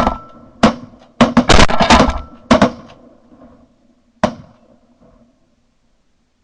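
A volley of shotgun blasts at incoming geese: about seven shots in quick succession over the first three seconds, then one last shot about four seconds in.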